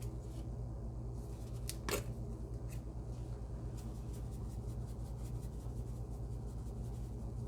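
A steady low hum with a few light clicks about two seconds in.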